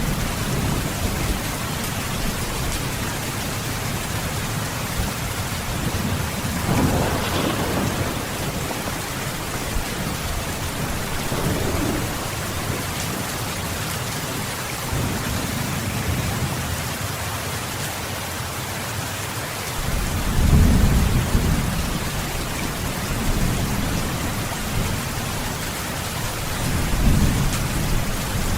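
Heavy rain falling steadily, with low rolls of thunder underneath; the strongest roll comes about twenty seconds in, another near the end.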